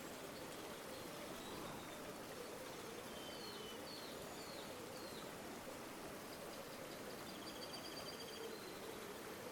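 River water flowing steadily, faint and even. Small birds call over it: a run of four short, quickly falling chirps in the middle and a faint rapid trill near the end.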